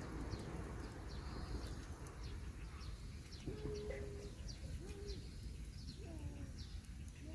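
Wild birds calling: many short, high chirps that fall in pitch, and from about halfway in a few lower, arched calls, over a steady background hiss.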